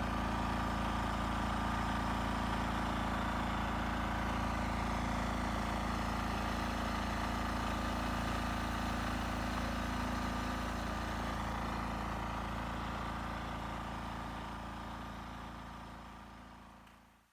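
Vehicle engine running steadily at an even pitch, fading out over the last few seconds.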